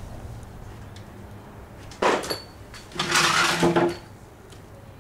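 Two bursts of clattering, as of metal objects being handled: a short one about two seconds in and a longer, rattling one about a second later, over a low steady background hum.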